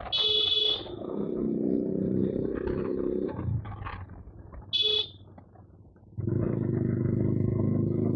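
Suzuki Gixxer motorcycle with an SC aftermarket exhaust revving and running loud. The engine drops away for a couple of seconds past the midpoint, then comes back strongly about six seconds in. A horn sounds two short beeps, one right at the start and one about five seconds in.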